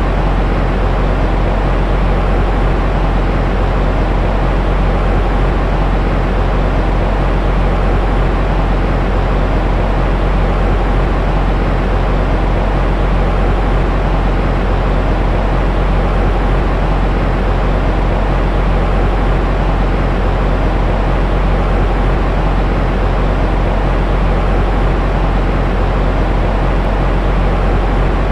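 Steady white noise for lulling a baby to sleep, strongest in a deep low rumble and fading in the high end, with no changes or breaks.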